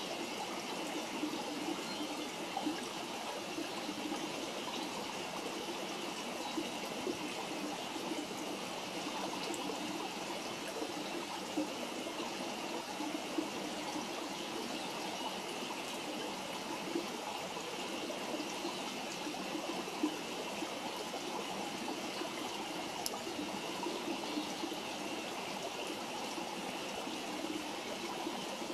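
Campfire burning, with a few faint isolated crackles over a steady rushing hiss that sounds like running water.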